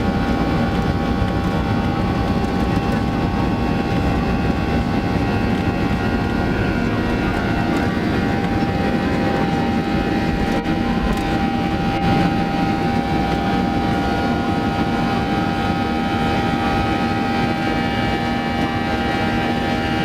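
Jet airliner engines running steadily: a constant noise with several steady tones above it.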